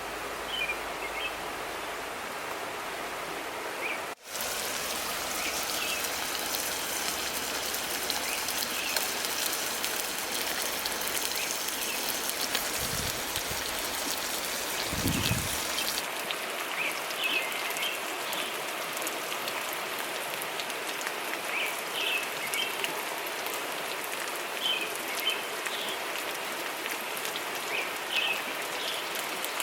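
Steady rushing of a flowing river, with small birds chirping now and then. The water sound shifts abruptly twice, about four and sixteen seconds in.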